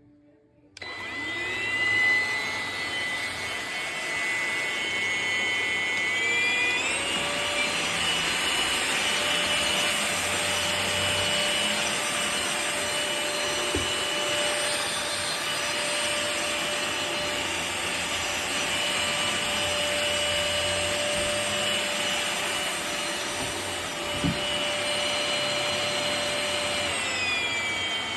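Cordless stick vacuum switching on about a second in and running with a steady whine. Its pitch steps up around six seconds in and drops back down near the end. Two light knocks come partway through.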